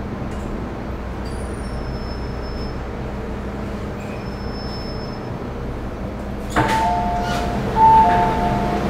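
A steady low rumble, joined about two-thirds of the way in by a two-note electronic chime that alternates between a higher and a lower tone.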